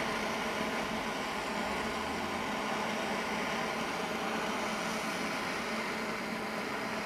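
Steady hissing rush of a torch flame heating a soldered throttle-cable end fitting to melt out stuck solder, with a faint low hum under it and no change in level.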